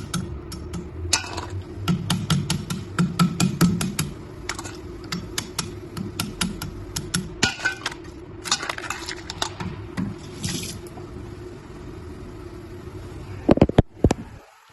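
Black sea crab being rinsed in water, hard shells clicking and clattering against the basin with short splashes, then a few loud knocks near the end.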